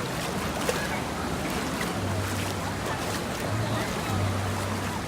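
Steady rush of splashing water at a water park, with a low steady hum coming in about two seconds in.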